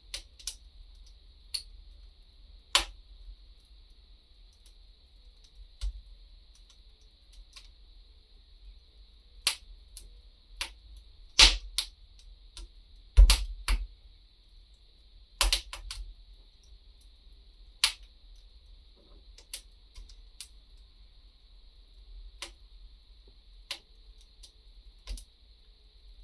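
Fireplace fire crackling: irregular sharp pops and snaps over a faint steady hiss, with a cluster of louder pops in the middle.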